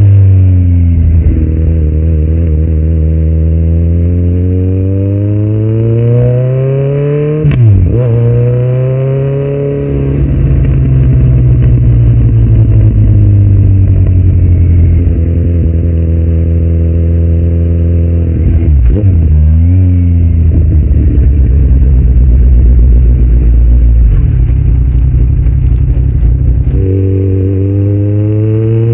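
2018 Kawasaki Z900's inline-four engine through a Yoshimura muffler and Delkevic headers with no dB killer, running loud under way. Its pitch climbs and falls with the throttle, breaking sharply at gear changes about 8 and 19 seconds in. After a long stretch of slowing and steady running, it jumps up in pitch near the end.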